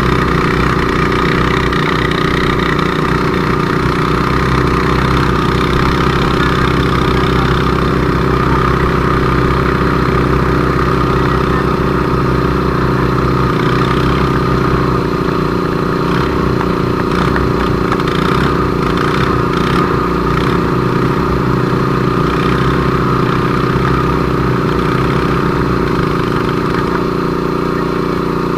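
Engine running steadily at constant speed throughout, a sustained even drone with no revving.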